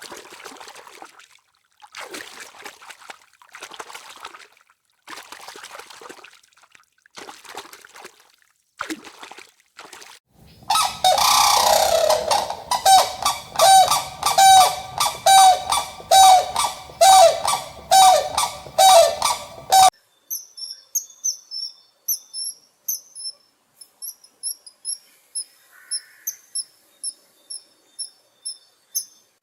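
Farm animal calls in three runs: a series of separate breathy calls, then a loud pitched call repeated evenly about every half second, then high thin chirps repeated quickly through the rest.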